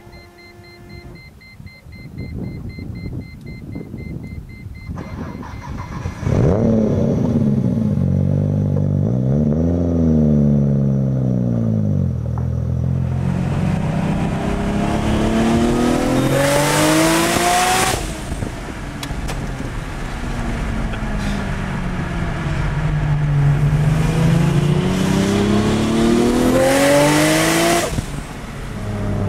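Nissan Skyline R33 GT-R's twin-turbo RB26DETT straight-six engine revving and accelerating. After a quieter start the engine comes in loud about six seconds in and blips up and back down. It then climbs in pitch through two long pulls, with a rushing noise growing at the top of each.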